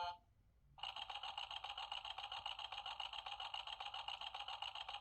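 Battery toy tractor's small speaker playing an electronic sound effect: a steady, fast-buzzing tone that starts about a second in, runs for about four seconds and cuts off suddenly. The toy is going off apparently by itself.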